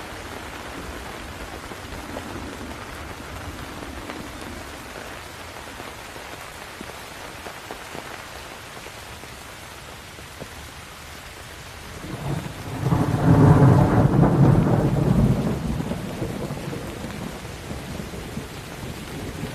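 Steady rain falling, with a long roll of thunder that builds about twelve seconds in, peaks, and rumbles away over several seconds.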